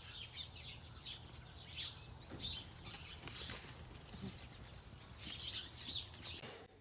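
Faint chirping of small birds, many short chirps scattered throughout, over a low steady hum.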